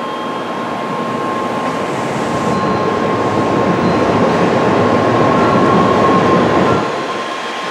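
Tokaido Shinkansen train moving along the platform. A rush of running noise swells for about six seconds, then drops off sharply near the end, over a steady high tone.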